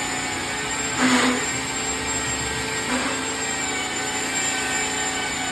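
Electric belt sander with a 120-grit belt running against a log wall, a steady motor hum with a high whine, and two brief louder surges about a second in and near three seconds as the belt bites into the wood.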